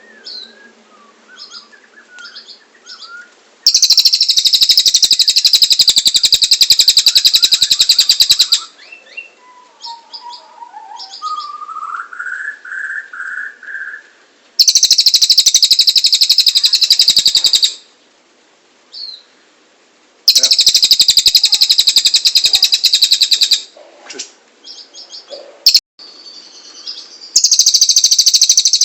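Cililin songbird singing: long, loud, very rapid high trills lasting three to five seconds each, four times over, with softer chirps and a rising warbled phrase between them.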